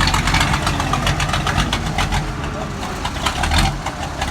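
Massey Ferguson tractor's diesel engine running through a modified exhaust, a steady rapid train of exhaust pulses over a low rumble, swelling briefly near the end.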